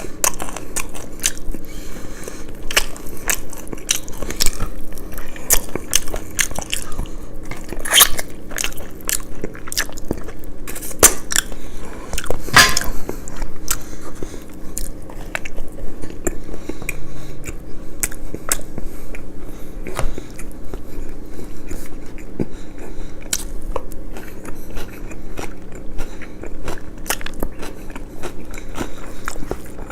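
Close-miked eating of crunchy food: crisp crunching bites and chewing, with the crunches coming thick and fast through the first half and thinning out toward the end.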